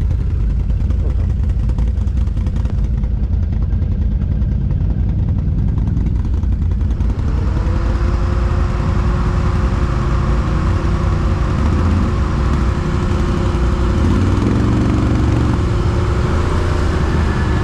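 Petrol engine running. About seven seconds in it rises and holds a steady higher pitch.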